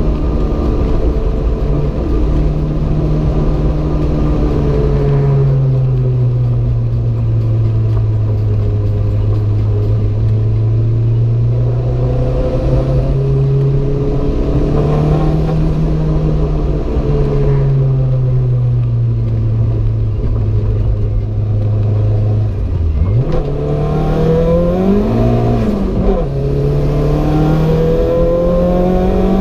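Renault 5 GT Turbo's turbocharged four-cylinder engine under way, its pitch sinking and climbing again several times as the car lifts, shifts and accelerates. About three quarters of the way through, the note drops sharply, then quickly rises and falls before climbing again.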